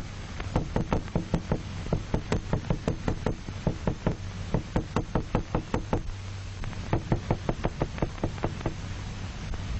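Rapid, uneven knocking, several sharp strikes a second in runs, made as a sound stimulus to test the isolated head's reaction to sound. A low steady hum runs underneath.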